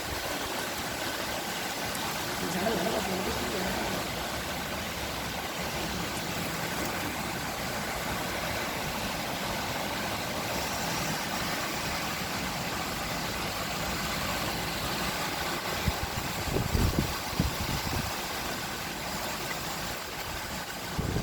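Heavy rain falling: a steady dense hiss, with a few short low thumps about three-quarters of the way through.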